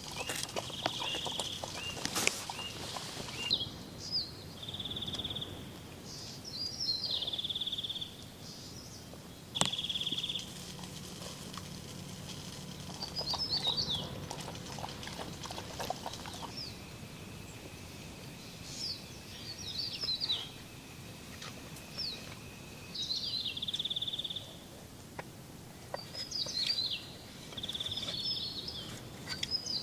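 Birds calling: clusters of short high chirps alternating with a brief buzzy trill, repeated every few seconds, with a few sharp clicks.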